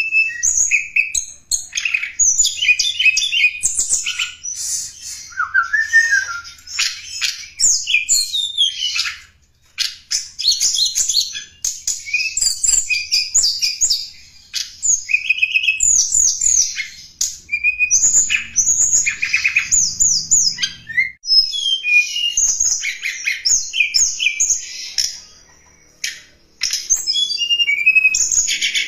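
Tledekan gunung singing a fast, varied song of high chirps, twittering trills and rising and falling whistled notes, phrase after phrase with a few brief pauses. This is a recorded lure song, the kind played to draw wild birds in or to tutor caged ones.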